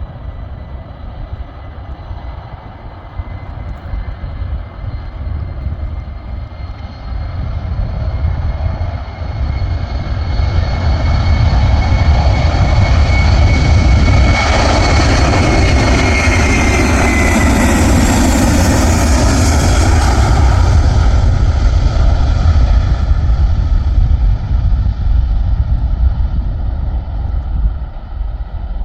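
Airliner engines passing close by. The sound swells over several seconds and peaks in the middle with a high whine that drops in pitch as the plane goes past, then fades away, over a steady low rumble.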